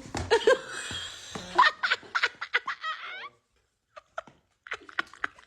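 A person laughing in quick bursts, cutting off sharply a little over three seconds in; after a short silence, a few scattered short clicks and snatches of sound.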